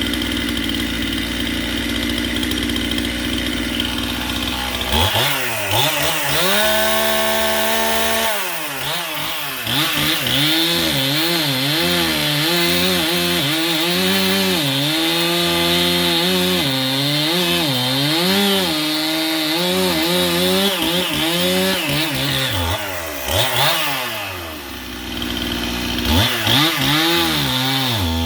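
Stihl Farm Boss two-stroke chainsaw running slowly, then revved up about five seconds in. It cuts through firewood, its pitch sagging and recovering again and again under load, then eases off and revs up again near the end. The saw is running a freshly fitted 18-inch bar and chain.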